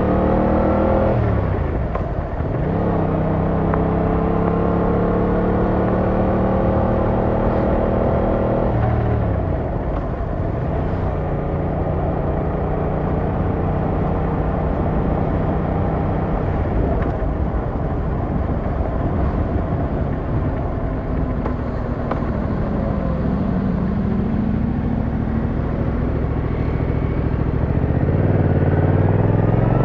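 Yamaha MT-07's 689cc parallel-twin engine running under the rider. The revs rise at the start and drop sharply about a second in, then pull up steadily until about nine seconds. After that the engine falls back to a lower, steady cruise under a rushing wind and road noise, and it revs up again near the end.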